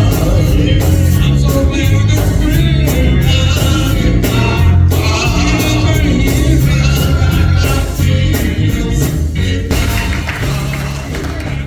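Gospel music: singing over a band with a heavy bass line and steady drum beats, easing off slightly near the end.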